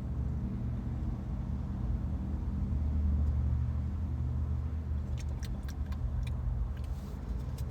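Steady low rumble of a car engine running at idle, swelling slightly midway, with a few light clicks and taps later on.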